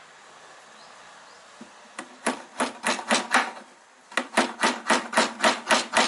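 Hammer driving nails to fix a metal hive-entrance plate onto a beehive. The first strikes come about two seconds in, a short quick run, then after a brief pause a steady series of strikes at about four a second.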